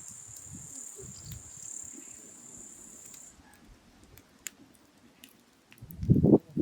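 A steady high insect chirring for the first three seconds or so, over scattered sharp crackles from a burning wood fire. Near the end, a burst of loud low thumps and rustling.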